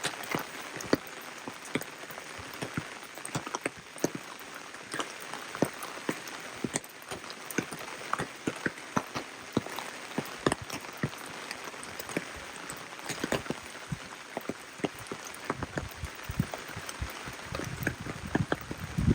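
Steady rain, with many separate drops striking close by in quick, irregular succession over a continuous hiss; a low rumble swells up near the end.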